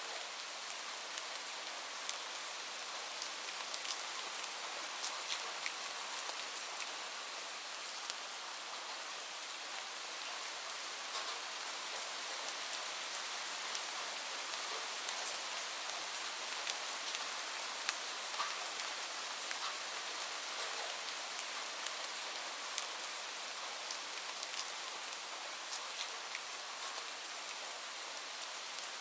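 Steady rain falling, a constant hiss with many individual drops tapping sharply and irregularly through it.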